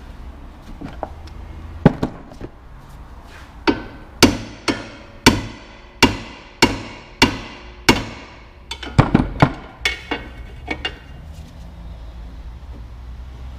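Hammer blows on metal, about a dozen sharp strikes with a ringing after each, coming at an even pace of nearly two a second in the middle, then a quick flurry and a few lighter taps, as part of a front wheel bearing job.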